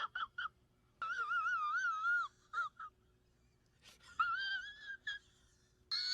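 High-pitched, wavering vocal squeals in several separate bouts: a few short ones at first, one longer wobbling squeal about a second in, and more squeals about four seconds in and near the end.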